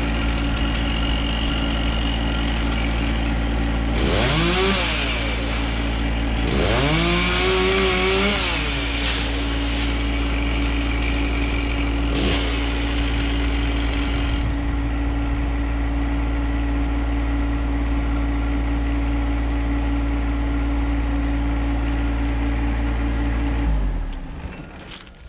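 Chainsaw engine running, revved up and back down twice early on, then running steadily until it is shut off shortly before the end.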